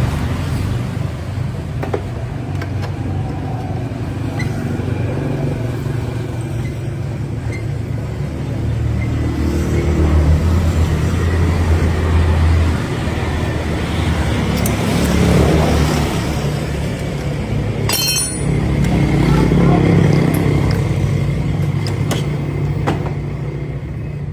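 Road traffic: vehicle engines rumbling steadily, swelling and fading as they pass, with a few sharp clicks and a brief rattle about eighteen seconds in.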